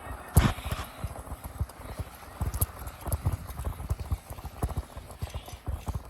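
Bicycle rattling and knocking as it rides over a rough surface: rapid, irregular low thumps and clatter, with one sharper knock about half a second in.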